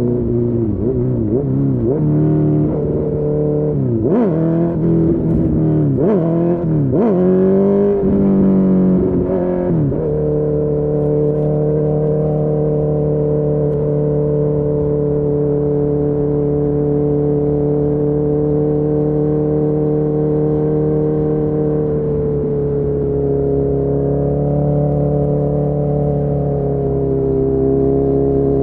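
Honda CB1000R's inline-four engine through a full Akrapovic exhaust, revving up and down several times in quick succession through the gears for about the first ten seconds, then holding a steady note while cruising, with a slight change in pitch near the end.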